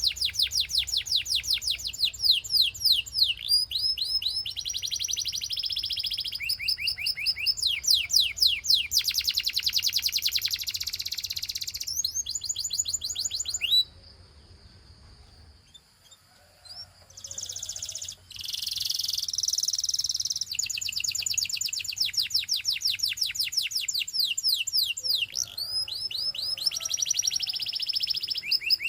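Domestic canary singing: long runs of rapidly repeated high notes and trills, changing from one rapid roll to another. The song breaks off for about two seconds around the middle, then starts again.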